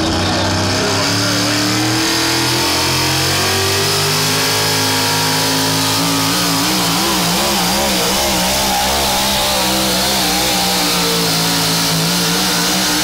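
A competition pulling vehicle's engine running hard at high revs under load. Its pitch climbs slowly for about five seconds, then wavers up and down through the rest.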